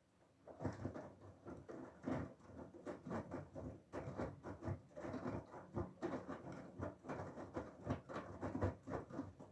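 Whirlpool FSCR90425 washing machine drum turning the wet load in a synthetics 40°C wash: clothes and water sloshing and flopping in irregular bursts. It starts about half a second in and stops abruptly near the end, the pause between tumbles.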